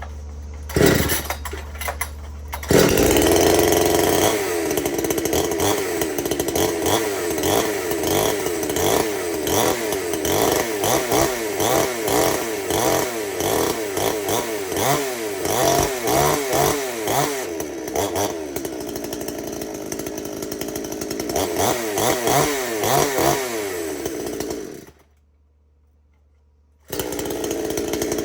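Gas chainsaw engine, a Craftsman saw, sputtering briefly about a second in, then firing and running from about three seconds, revving up and down repeatedly. It cuts out abruptly for about two seconds near the end, then runs again.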